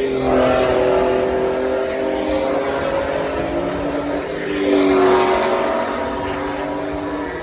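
Porsche race car engines running at high revs on the circuit, with slight rises and falls in pitch. One car gets louder and brighter about five seconds in as it comes close, then fades.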